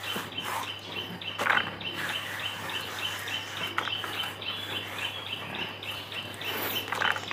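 A bird chirping over and over in a fast, even series of short high notes, about three a second, with a few brief rustles.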